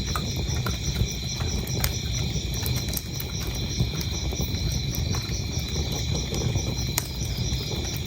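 Wood fire burning in a fireplace, a steady low rumble with scattered sharp crackles and pops, over crickets chirping in an even, steady pulse.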